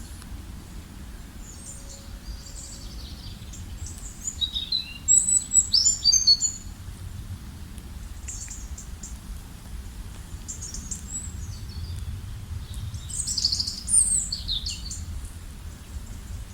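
Several songbirds chirping and singing in short high phrases, with the busiest bursts about a third of the way in and again near the end, over a steady low rumble of outdoor background noise.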